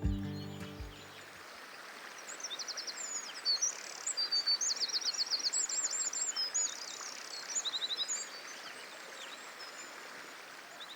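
Wild birds singing outdoors, several fast trills of rapidly repeated high notes and scattered chirps, over a steady faint background hiss. Music fades out in the first second.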